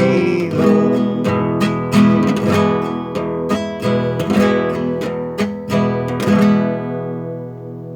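Acoustic guitar strummed in chords; about six and a half seconds in the last chord is left ringing and fades away.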